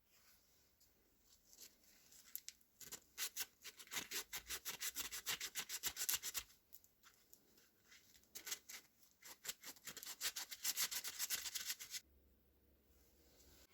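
Rapid back-and-forth rubbing strokes, about six a second, in two bouts of several seconds with a short pause between, typical of hand sanding or scrubbing a part of the lamp being restored.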